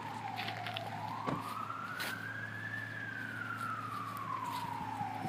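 Emergency vehicle siren on a slow wail. It falls about a second in, climbs for about two seconds, then falls again, roughly one rise and fall every five seconds.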